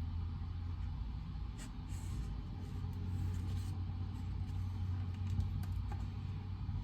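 Study-room ambience: a steady low hum with faint, scattered rustles and light ticks over it.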